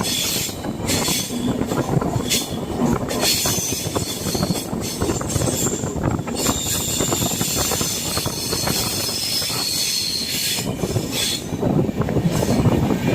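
Passenger train running on the rails with a steady rumble and wheel clatter, and a high wheel squeal from the wheels grinding on the rails through most of the middle, fading near the end.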